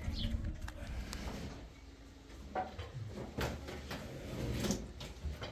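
A few scattered knocks and scrapes, as of things being handled, over a low rumble.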